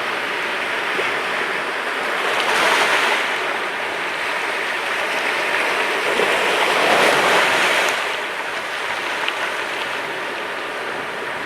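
Sea waves washing onto the shore: a steady rush of surf that swells louder twice, about three seconds in and again between six and eight seconds.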